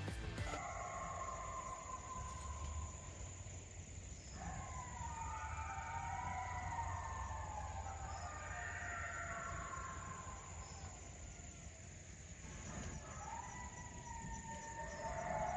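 Several distant wavering howls, rising and falling in pitch and overlapping one another, over a steady high insect drone.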